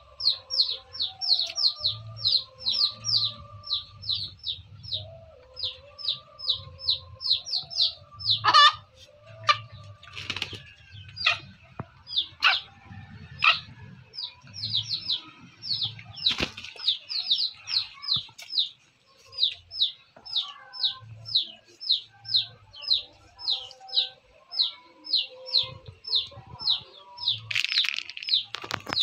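A steady, rapid run of short high chirps, about four a second, from a small bird, with a few sharp wing-flapping bursts from the middle on as a hen and a small frizzle rooster spar. Near the end there is a louder, noisier burst.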